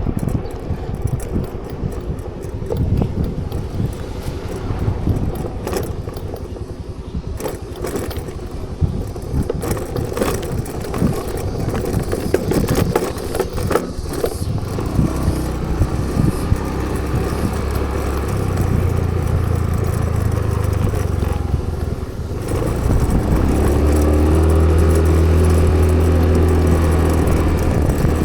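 Clicks, rustling and key jangling of handling, then a motorcycle engine starts about halfway through and runs with a steady note, getting louder twice in the last third.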